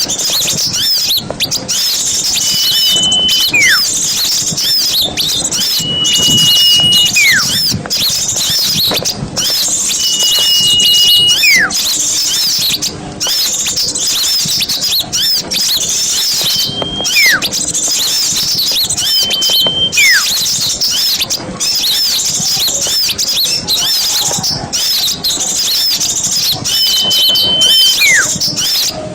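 Dense chorus of small songbirds, quick high chirps and twitters packed together without a break. Every few seconds a louder whistle cuts through: a held note followed by a sharp falling slide.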